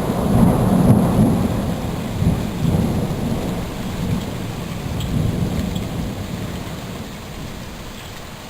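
A long roll of thunder, a deep rumble that slowly dies away, over steady rain with scattered drops ticking.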